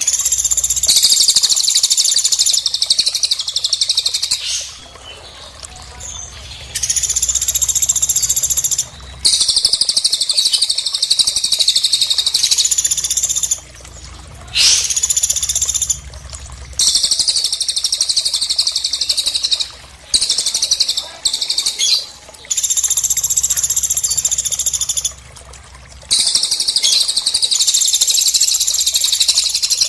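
Recorded songbird song for bird-training: about nine long, rapid, high-pitched trills, each lasting a few seconds, with brief pauses between them and a quick upward sweep midway.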